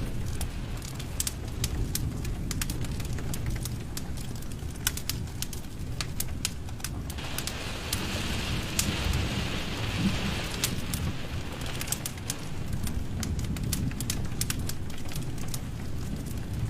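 Fire burning in a fireplace: a steady low rumble of flames with frequent sharp crackles and pops, and a stretch of hissing for a few seconds in the middle.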